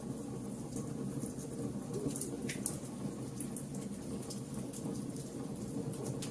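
A fire burning: a steady low rush of flames with frequent short, sharp crackles, one louder crack about two and a half seconds in.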